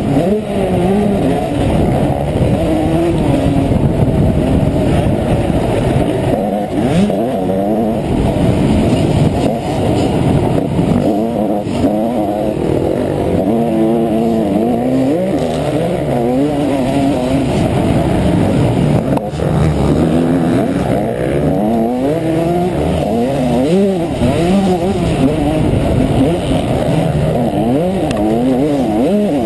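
Honda CR125 two-stroke single-cylinder engine revving hard and falling off again and again as the bike is ridden around a motocross track, its pitch climbing and dropping every second or two. It sounds muffled, with little above the midrange.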